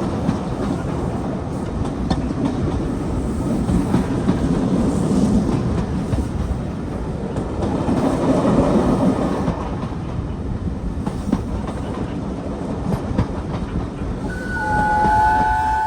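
Steam-hauled train running on the line, its wheels clattering over the rail joints. About fourteen seconds in, a chime whistle starts, with several pitches sounding together.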